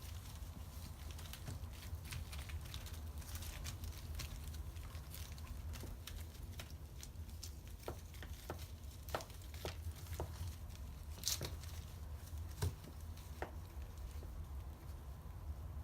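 Scattered light taps and clicks at irregular intervals, over a steady low hum.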